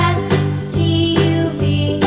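Background music: an upbeat, children's-style tune with a steady beat and a bright melody over a bass line.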